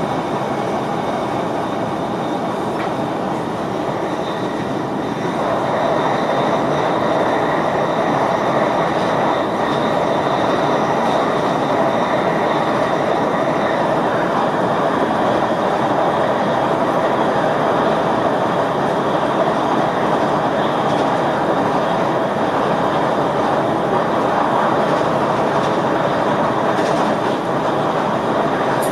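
Steady running noise in the driver's cab of an NS VIRM double-deck electric multiple unit on the move: wheels on rails and the train's running gear, with a faint steady high whine. It grows louder about five seconds in and stays that way.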